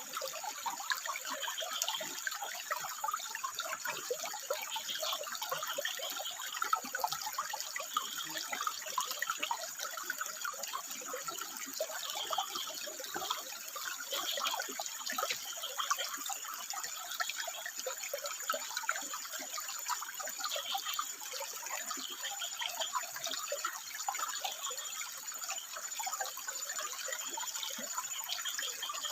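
Water trickling and splashing steadily over rocks, with short frog calls repeating every second or two above it.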